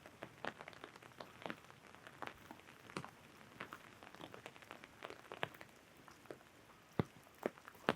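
Rain falling on an umbrella overhead: irregular sharp taps of single drops over a faint steady hiss, the taps louder and more frequent near the end.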